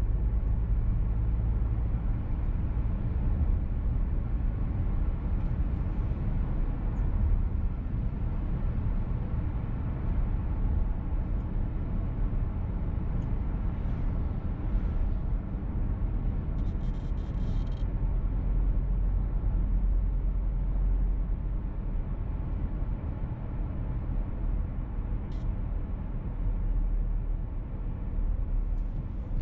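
Steady low driving rumble of a VW T-Roc's engine and tyres heard from inside the cabin while it is under way. A brief hiss comes about 17 seconds in.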